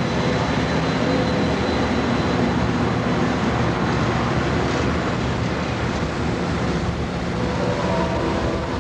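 Amtrak Desert Wind passenger train running at the station: a steady rumble with a low engine drone, and faint higher tones coming in near the end.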